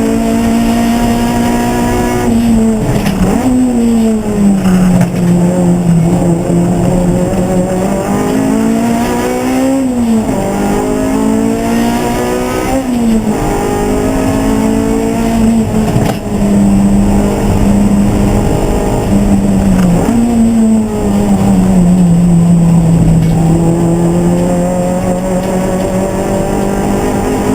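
Race car engine running hard and steadily, its note climbing slowly and then dropping sharply several times as the gears change.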